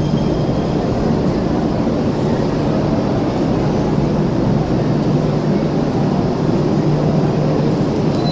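Enoden electric train pulling slowly into the platform: a steady low hum and rumble of its running gear and motors.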